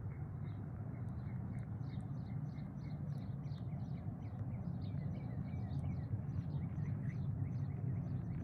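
A bird chirping in quick, repeated short notes over a steady low rumble of outdoor background noise.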